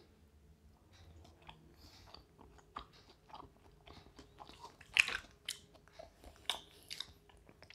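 A person biting and chewing a crispy fried fish finger up close, with scattered crunches and mouth clicks, the loudest about five seconds in.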